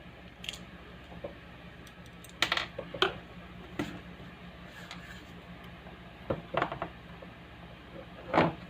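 Steady low electrical hum from a speaker, the hum fault being fixed, with scattered clicks and knocks of handling over it; the loudest knock comes near the end.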